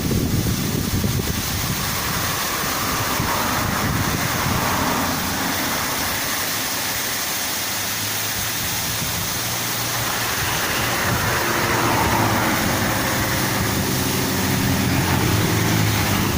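Steady rush of water from a waterfall, with a road vehicle's engine running under it; the engine hum grows stronger in the second half.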